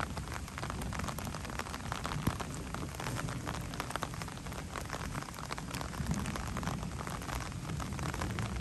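Steady rain in a thunderstorm, with many small drop ticks on nearby surfaces and a low rumble of thunder underneath that swells about six seconds in.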